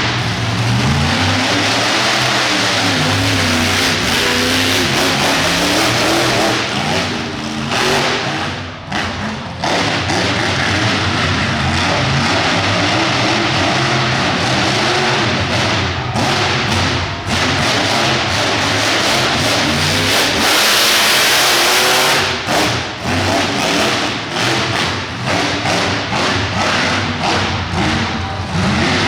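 Monster truck engine revving hard, its pitch rising and falling, with repeated sudden throttle cuts and brief drops, louder near the middle and chopping on and off near the end.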